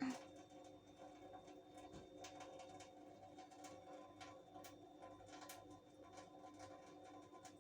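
Near silence: a faint steady hum with scattered soft clicks, and one short knock right at the start.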